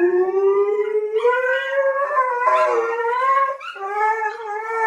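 A dog howling in a long, drawn-out note that slowly rises in pitch. It breaks off briefly about three and a half seconds in, then starts again.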